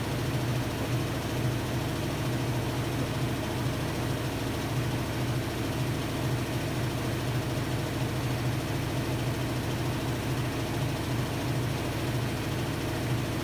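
Hotpoint-Ariston Aqualtis AQD972F washer-dryer running: a steady low hum with an even hiss above it, no changes.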